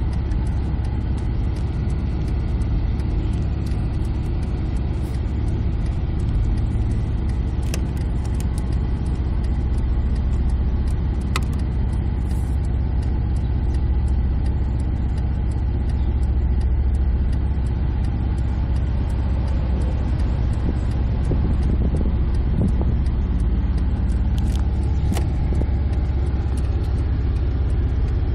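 Car engine idling with a steady low rumble, heard from inside the cabin as the car creeps along at walking pace. A few faint clicks stand out over it.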